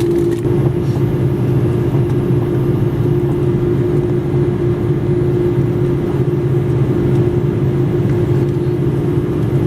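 Steady drone of an Airbus A330-300 airliner heard inside its cabin: a continuous low rumble with a held mid-pitched hum.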